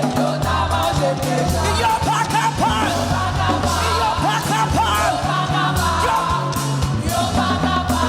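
Live worship music: a praise team singing with a band, over a steady bass line and regular drum beats.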